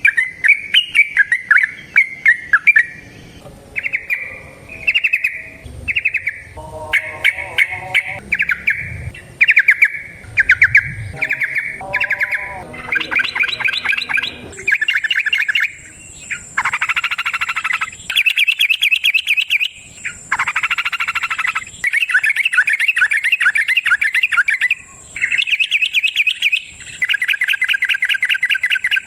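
Yellow-vented bulbul (trucukan) singing: bubbly warbling phrases, short and broken at first, then from about halfway long rapid chattering runs of a few seconds each. This is the long 'ropel' song of a bird in full voice.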